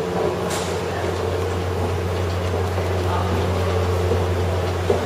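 Car engine idling, a steady low hum, with a brief swish about half a second in.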